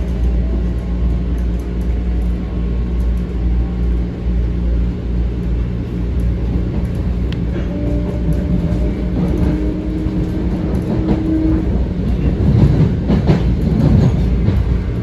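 Metro-North M7 electric multiple-unit train running, heard from inside the car: a steady low rumble of wheels on rail. A steady tone comes in for a few seconds past the middle, and clicking and rattling wheels pick up near the end.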